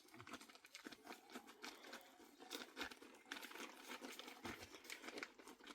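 Faint, irregular crackling and rustling made of many small clicks.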